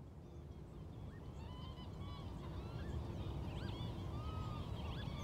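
Many short, overlapping bird calls over a low steady rumble, fading in gradually.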